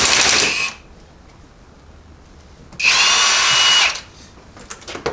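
Handheld electric power tool spinning in short bursts of about a second each, with a steady whine that sags in pitch as each burst stops. One burst ends just after the start and a second comes about three seconds in.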